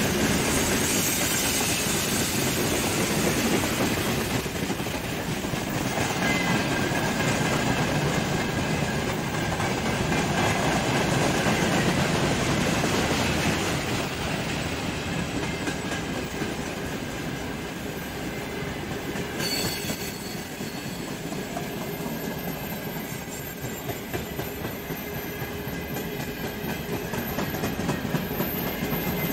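Freight train cars rolling past, steel wheels running and clacking over the rail joints in a steady, heavy rumble, with a faint thin wheel squeal now and then. It eases off a little about halfway through.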